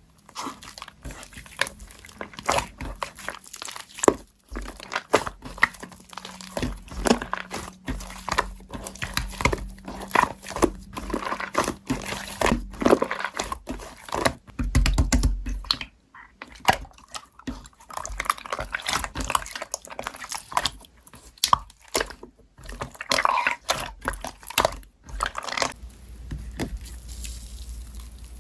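Slime being squeezed and poked by hand, a dense, irregular run of sticky clicks, crackles and small pops.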